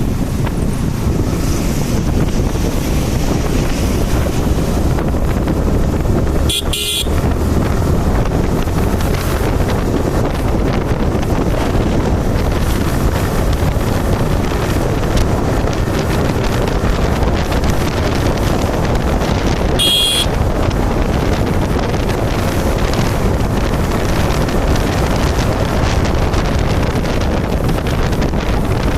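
Steady wind rushing over the microphone with road and traffic noise while riding a motorcycle, broken by two short, sharp high-pitched sounds, about seven and twenty seconds in.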